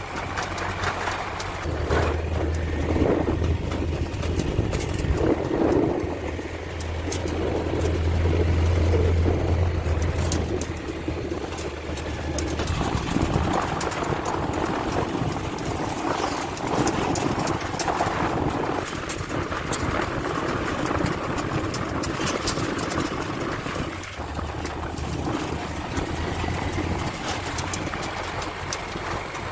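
A vehicle engine running with a steady low hum, over varying rumbling noise and scattered clicks.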